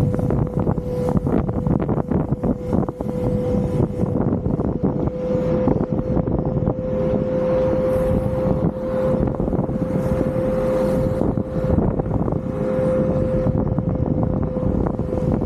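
Car driving along a road: steady engine and road rumble with frequent brief knocks and buffeting, and a steady mid-pitched hum throughout.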